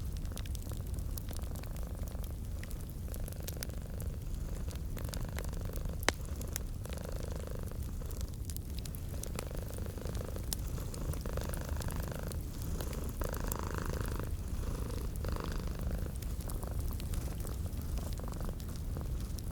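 Domestic cat purring steadily and closely, with the purr swelling in and out over a second or two at a time. Sharp fireplace crackles snap throughout, one louder pop about six seconds in.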